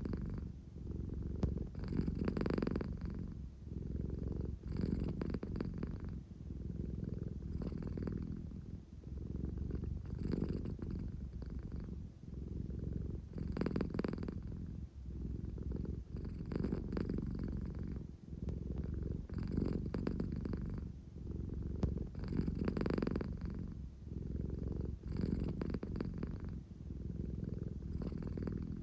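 American Shorthair cat purring steadily and deeply, with a low, engine-like rumble that swells and eases with each breath about every two to three seconds: the purr of a sleepy, affectionate cat.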